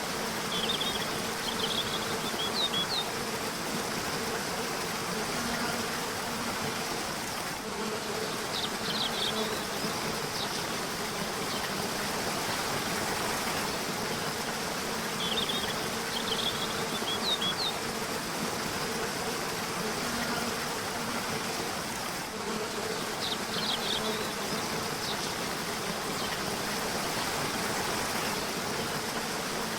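River water rushing steadily, with a steady low buzz and short clusters of high bird chirps that come back about every seven seconds.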